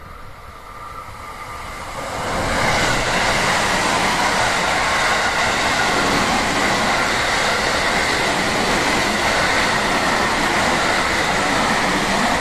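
JR West Special Rapid electric train passing at speed: rushing wheel-on-rail noise with a steady high ring. It builds quickly about two seconds in, stays loud for about ten seconds, and starts to fade at the very end.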